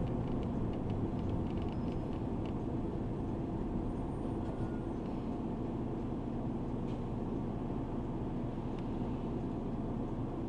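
Steady engine and cabin rumble of a route bus, heard from inside the passenger cabin, with a few faint light ticks in the first couple of seconds.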